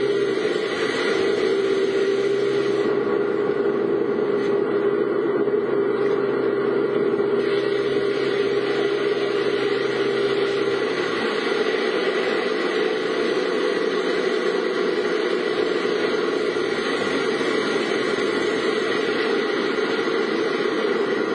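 A car driving with a steady engine and road noise. A low hum in the engine sound drops away about halfway through.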